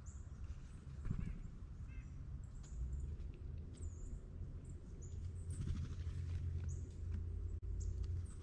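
Small birds giving short, high chirps here and there over a steady low rumble.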